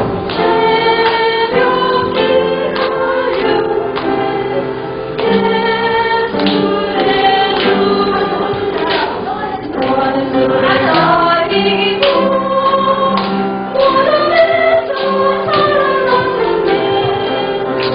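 A church choir singing a hymn, with instrumental accompaniment keeping a steady beat of about two strikes a second.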